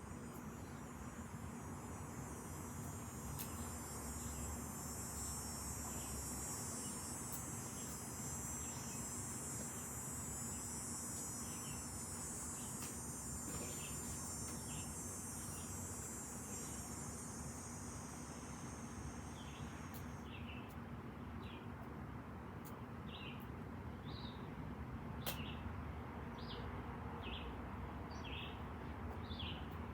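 Insects buzzing, a high steady drone that cuts off about twenty seconds in, over short high chirps and a steady low rumble, with a few sharp pops from the wood fire.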